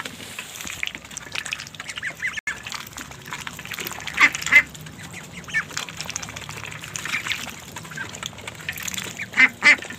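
Domestic ducks calling on and off in short quacks, with louder pairs of calls about four seconds in and near the end.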